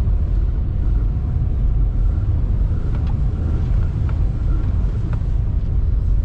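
Lada Vesta at highway speed heard from inside the cabin: a steady low road and tyre rumble with the engine running under it, on winter tyres. A few faint ticks come in the second half.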